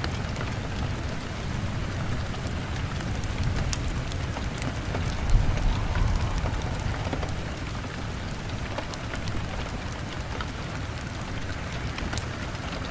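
Heavy rain beating on a window, a steady hiss over a low rumble, with small sharp crackles of a log fire scattered through it. A short low thump about five seconds in.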